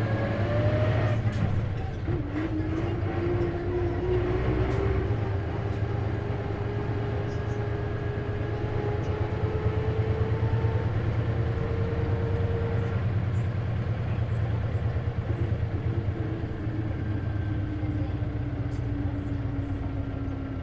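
Isuzu KC-LV380N bus with a manual gearbox driving along, heard from inside, over a steady low engine drone. A whining tone rides on top of it, tracking the bus's speed: it drops sharply at a gear change about two seconds in, climbs slowly, then sinks gently toward the end. This is the bus's abnormal noise, which the uploader suspects is a symptom that can occur on manual-transmission buses.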